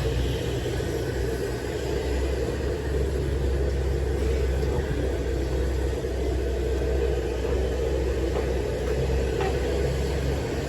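Loaded diesel dump truck pulling away, its engine a steady low rumble.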